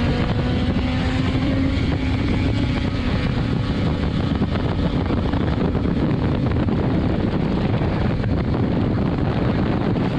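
Motorcycle cruising at highway speed: steady wind rush on the microphone over the BMW S1000RR's inline-four engine note. The engine's tone fades under the wind about halfway through.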